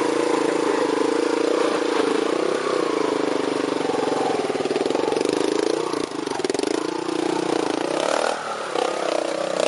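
Trials motorcycle engine running at low revs with small rises and dips in pitch as the rider works the bike over rocks. About eight seconds in, the sound changes and gets a little quieter as the bike moves off.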